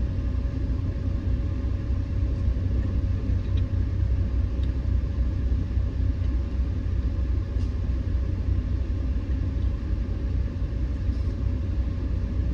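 Steady low rumble of a car heard from inside the cabin, with a faint steady hum above it and a few tiny clicks.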